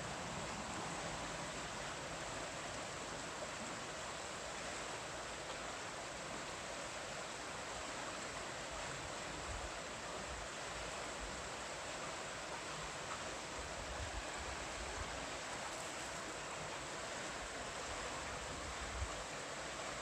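River water rushing steadily over rocks, a constant hiss of rough moving water.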